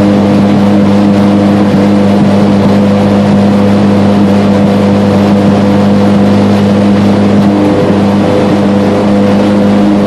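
Honda CRX drag car's four-cylinder engine, running on Accel DFI engine management, heard from inside the cabin running steadily at a constant pitch.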